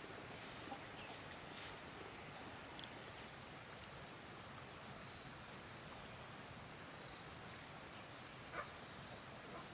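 Faint outdoor ambience: a steady high-pitched hiss, with a few light ticks scattered through.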